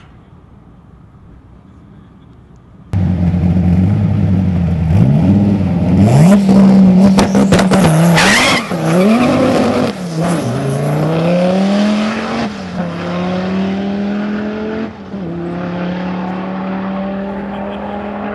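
Twin-turbo V10 Dodge Viper engine running loud, revved up and down several times, with a burst of tyre squeal partway through typical of a burnout. The engine then rises in pitch more slowly and settles to a steady note.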